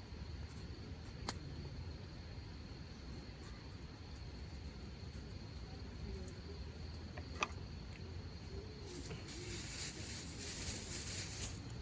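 Hardwood campfire crackling, with a few sharp pops, under a faint steady insect trill. A hiss starts about nine seconds in and runs for nearly three seconds.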